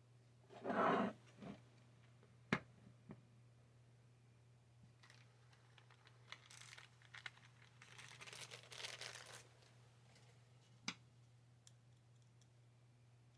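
Hands handling small 3D printer parts: rustling and crinkling, loudest about a second in and again in a longer stretch in the middle, with a few sharp clicks and knocks. A steady low hum runs underneath.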